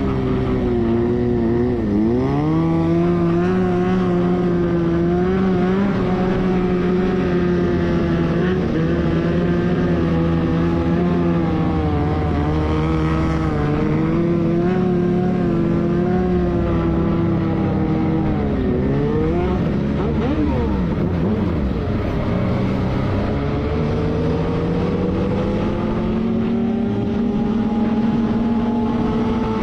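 Motorcycle engine running under way, its pitch mostly steady. It drops sharply and recovers about two seconds in and again around two-thirds of the way through, then climbs steadily near the end as the engine speed rises.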